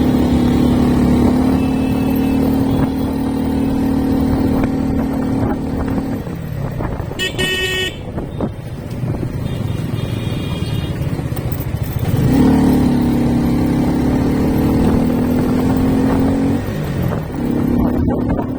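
Motorcycle engine running at a steady speed while riding, easing off about six seconds in and picking up again about twelve seconds in. A vehicle horn beeps briefly about seven seconds in, with a fainter horn a few seconds later.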